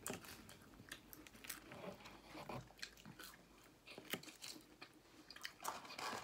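Quiet chewing and biting of McDonald's chicken nuggets, with scattered small crunches and clicks.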